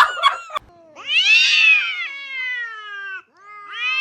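A cat giving a long, drawn-out meow that rises and then falls, starting about a second in, then starting a second meow near the end. A few short clicks and squeaks come right at the start.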